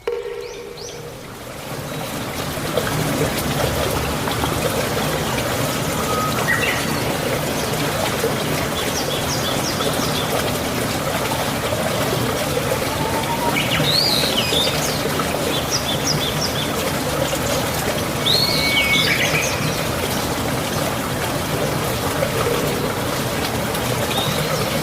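Water running steadily, like a forest stream, swelling up over the first couple of seconds. Birds chirp high over it, with a few louder calls of quick rising and falling notes around the middle.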